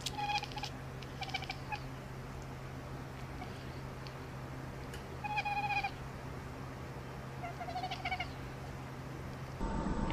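A cat meowing four times in short, level-pitched calls, two close together near the start, then two more several seconds apart.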